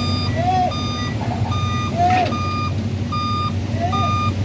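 Truck reversing alarm beeping steadily, about one short beep every 0.8 seconds, over a truck engine running. A lower rise-and-fall tone sounds between some of the beeps, and there is a brief clatter about two seconds in.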